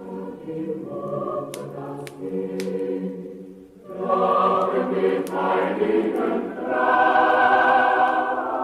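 Choir singing a Christmas song in long held chords, swelling louder about four seconds in and again near seven seconds. A few sharp crackles from the fireplace fire come through in the first three seconds.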